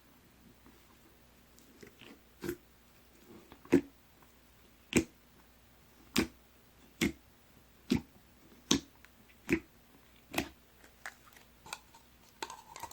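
Crunchy Chex Choco floam slime being pressed by hand, giving sharp crackling pops about once a second, with smaller, quicker crackles near the end.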